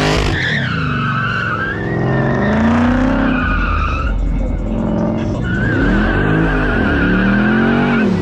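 Car tyres squealing as the car slides sideways under power, with the engine revving up and down several times. The squeal breaks off about four seconds in and starts again over a second later.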